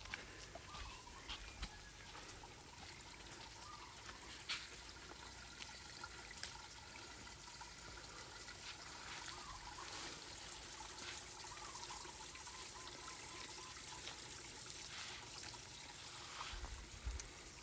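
Running water with a steady rushing, overlaid by faint bird chirps and a few sharp clicks.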